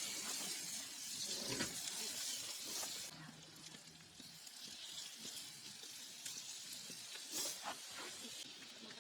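Hamburger patties sizzling on a hot iron griddle over a wood fire, with scattered crackles. The hiss starts suddenly, is loudest for the first three seconds, then settles to a steadier sizzle.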